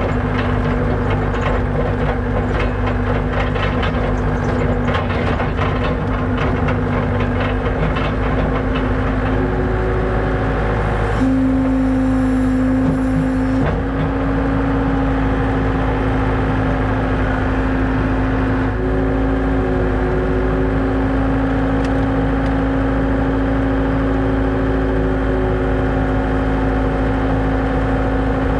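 Engine running steadily at a held speed, revving up briefly about eleven seconds in and settling back.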